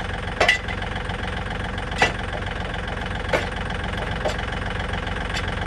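Tractor engine idling steadily, with five sharp metal clanks spread through it from a steel axle stand being set in place under the car's suspension.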